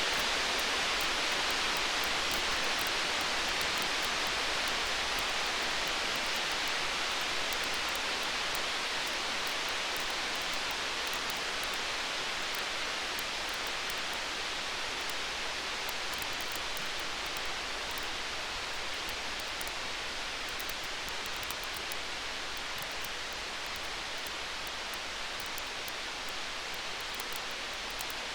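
Storm-and-fire ambience: a steady, even hiss like heavy rain, with faint crackling ticks from a burning fire and a low rumble underneath. It fades slowly.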